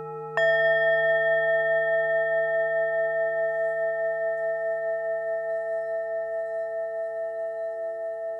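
Tibetan singing bowl struck once about half a second in, ringing on with a slow pulsing wobble as it fades, over the lower tone of another bowl still ringing.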